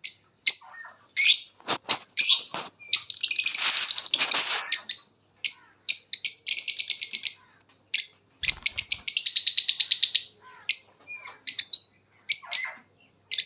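Lovebirds chattering: repeated sharp, high-pitched chirps broken by several fast trilling runs.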